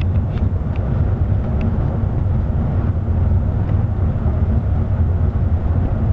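Scania K360 coach's engine and drivetrain running steadily with road noise, a constant deep rumble, with a few faint light ticks.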